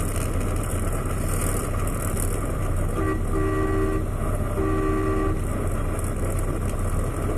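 Semi truck horn sounding twice, each blast about a second long with several tones together, warning a truck that is not yielding. A steady low drone of the idling truck engine runs underneath.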